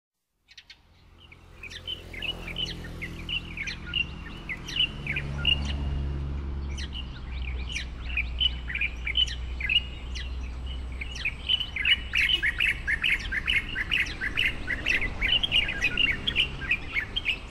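Birds chirping: a busy run of short, high chirps that grows denser in the second half, over a low steady hum.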